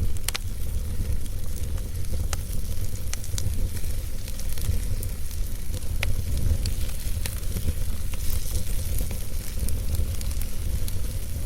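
Wood fire burning in a fireplace, crackling with sharp pops scattered irregularly through, the strongest just after the start and about six seconds in, over a steady low rumble.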